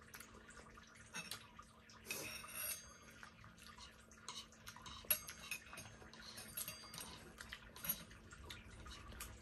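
Eating sounds at a table: spoons and cutlery tapping and clinking against plates and bowls in scattered small clicks, with a couple of louder clinks that ring briefly, about two seconds in and again near seven seconds.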